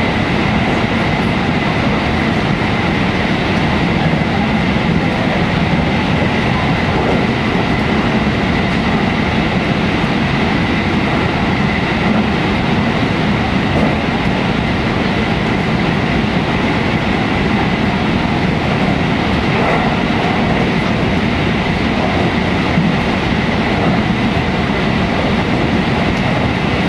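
JR 313 series electric train running steadily through a tunnel, heard from inside the passenger cabin: a loud, unbroken rumble of wheels on rail, with a thin steady high tone running through it.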